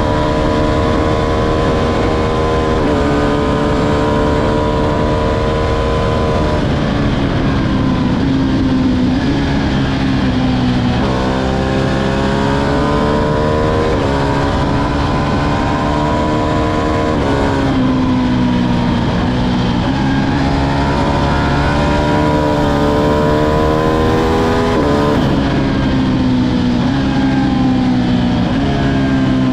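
Ducati Streetfighter V2's 955 cc L-twin engine running under way. Its note holds steady for stretches, drops in pitch several times, and jumps sharply back up twice: throttle and gear changes.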